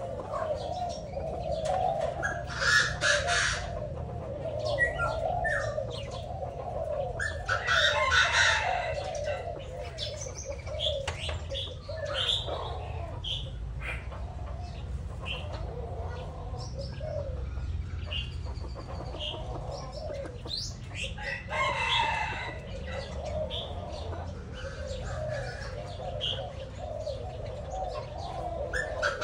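Birds calling: a steady low chatter of short calls, with louder harsh calls about 3, 8 and 22 seconds in and scattered chirps.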